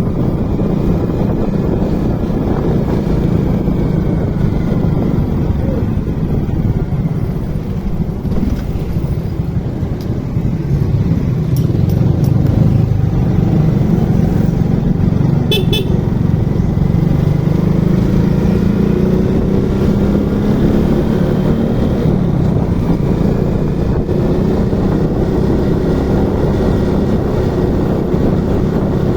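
Motorcycle engine running on the move, its pitch rising and falling with speed, over steady road and wind noise.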